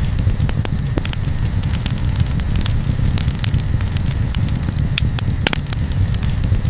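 Campfire crackling: irregular sharp pops and snaps over a steady low rumble, with short high chirps now and then.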